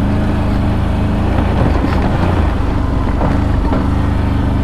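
ATV engine running steadily, a loud, even drone close to the machine.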